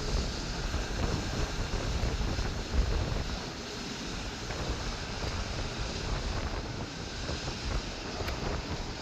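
Wind buffeting the microphone, with heavy low gusts for the first few seconds, then a steadier rushing noise.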